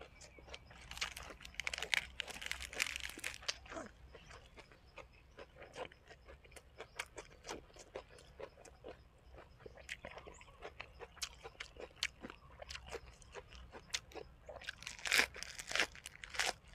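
A person biting and chewing crunchy food, a spicy pounded squid-tendon salad eaten with raw vegetables. Crisp crunches come densely about a second in and again near the end, with steady chewing clicks in between.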